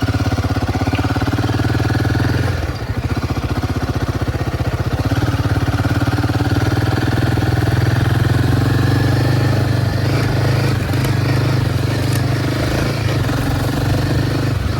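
Royal Enfield Himalayan 450's single-cylinder engine running steadily, with a brief drop in level about two and a half seconds in before it picks up again.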